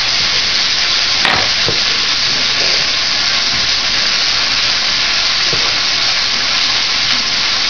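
Vegetables sizzling steadily in a pot, with a few knife knocks on a cutting board as an onion is roughly chopped.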